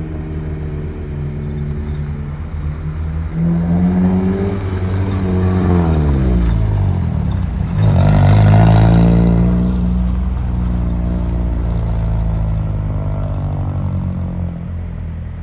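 Car engine revving hard while the driven wheels spin in loose gravel during a burnout, dust spraying. The revs climb about four seconds in, drop away, climb again to the loudest point about eight seconds in, then hold steadier.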